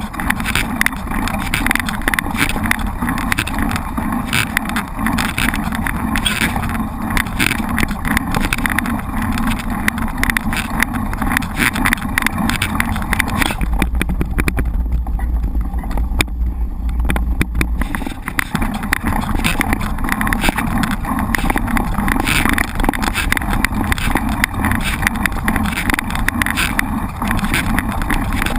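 Mountain bike being ridden over rough ground, heard from a camera on the bike or rider: a constant rattle and clatter with road noise. For about four seconds in the middle, wind buffets the microphone with a low rumble.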